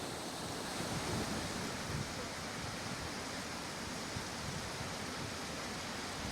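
Steady rushing outdoor noise, with irregular low rumbles of wind buffeting the microphone.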